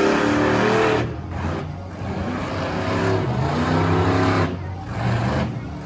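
Monster truck engine revving hard in two surges, its pitch climbing and falling, with a lull between them about one to two and a half seconds in.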